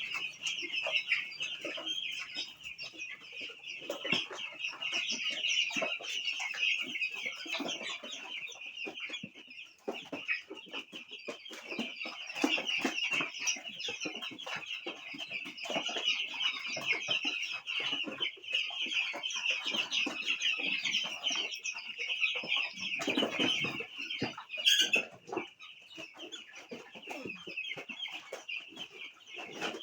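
A flock of 11-day-old chicks peeping continuously in a dense high-pitched chorus, with many small taps mixed in and a louder spell near the end.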